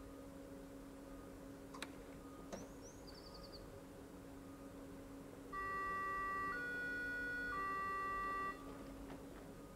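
Steady electrical hum from a Berlin S-Bahn class 480 train standing at the platform. About halfway through, a loud electronic signal of three steady notes sounds, about a second each, the first and last alike. A few faint chirps come before it.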